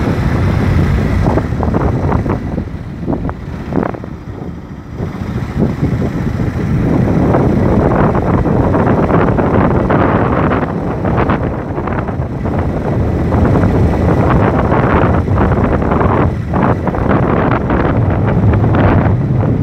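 Wind buffeting the microphone on a moving motorcycle, over the bike's engine and road noise. The roar eases briefly about four seconds in, then comes back as strong as before.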